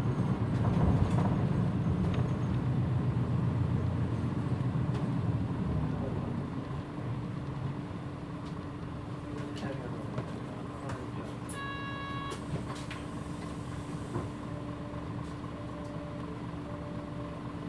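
Mitsubishi PJ-MP35JM bus heard from inside, its engine sound dying down over the first several seconds and settling to a steady idle hum. A chime sounds about twelve seconds in, and three short beeps come near the end.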